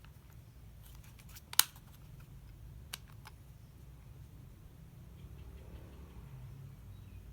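Handling clicks: one sharp, loud snap about a second and a half in, then a lighter click a little over a second later, with a few faint ticks around them.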